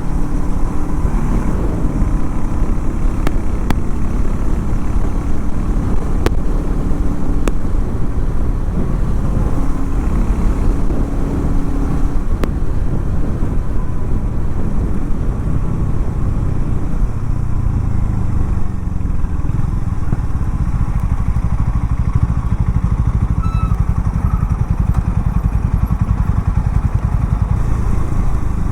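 Harley-Davidson X440 T's single-cylinder engine running steadily with a low rumble, its pitch shifting a little in the first half. A few faint sharp clicks are heard early on.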